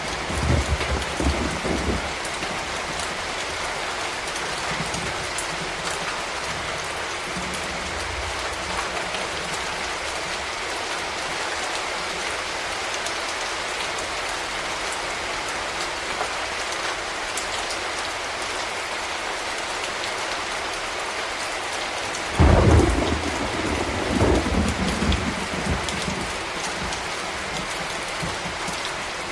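Steady rain falling. Two low rolls of thunder break through it: a short one right at the start and a louder one that breaks suddenly about 22 seconds in and rolls on for several seconds.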